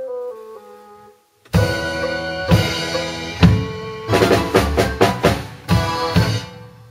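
Drum kit playing along with a tango backing track: a melodic phrase falls away, there is a brief pause, then loud accented hits land with the band's chords, followed by a quick run of strokes and a final hit that rings out to close the piece.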